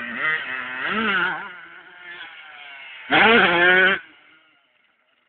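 Motocross bike engines revving up and down, with one bike revving loud and rising in pitch for about a second near the end, then the sound dies away quickly.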